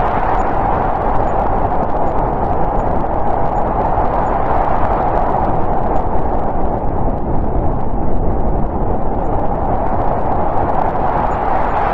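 Howling snowstorm wind, a steady rush of noise with slow swells.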